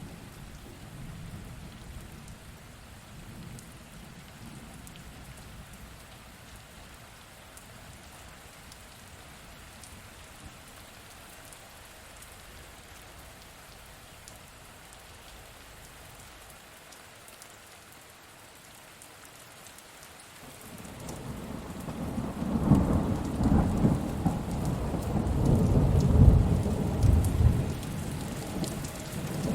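Steady rain falling, then after about twenty seconds a long roll of thunder builds up and rumbles loudly to the end.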